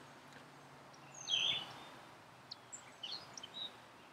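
Wild birds calling: one louder high call about a second in, then several short, high chirps.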